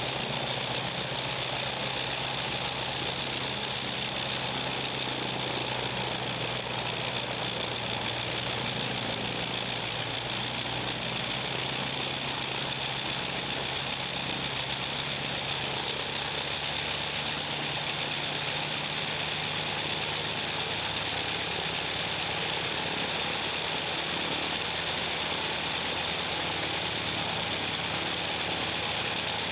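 Avro 504K biplane's rotary engine running steadily on the ground, its pitch creeping up a little about halfway through.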